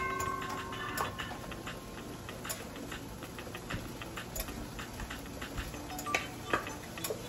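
Onion, garlic and ginger frying in oil in a Dutch pot: a steady, irregular crackle of fine ticks. A metal utensil's ring against the pot fades out in about the first second.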